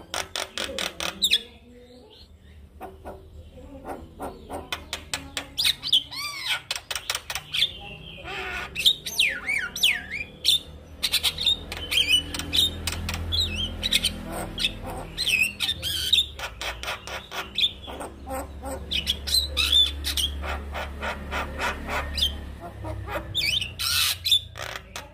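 Male Javan myna singing a long, varied chattering song: fast runs of clicks mixed with whistled rising and falling notes and squawks.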